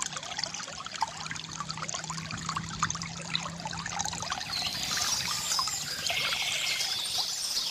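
Small stream trickling and splashing steadily, with birds singing in high, quick phrases in the second half.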